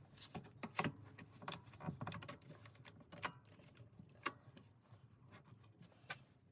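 Woodworking clamps being fitted and tightened onto a glued-up veneer panel: irregular faint clicks and light knocks.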